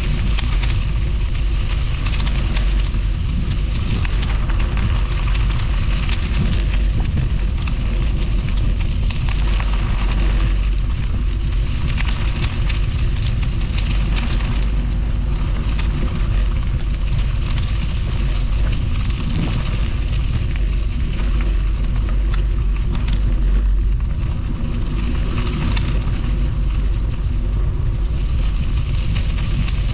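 Wind buffeting the microphone of a camera riding on a moving bicycle: a loud, steady low rumble with a rough hiss, unbroken throughout.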